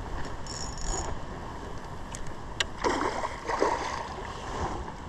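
Shallow salmon stream running steadily, with two brief sloshes of water about three seconds in.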